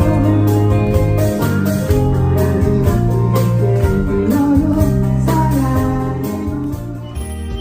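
Live band music with guitar and a steady beat, dropping in level near the end.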